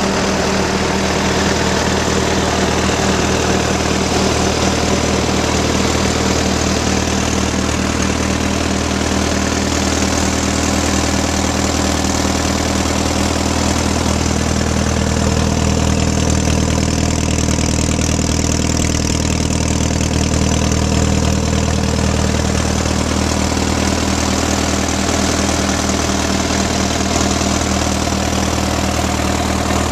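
1938 Case C tractor's four-cylinder engine idling steadily, with an even, unchanging beat.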